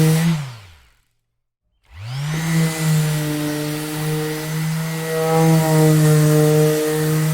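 Electric orbital sander switched off and spinning down, silent for about a second, then switched back on, spinning up and running steadily.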